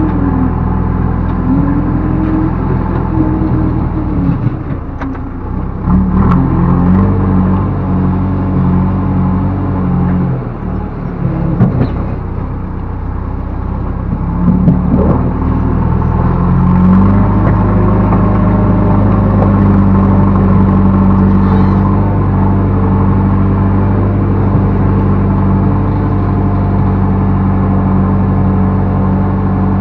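Backhoe loader's diesel engine working, its speed dropping and picking up again a few times, then held steady at higher revs from about halfway on.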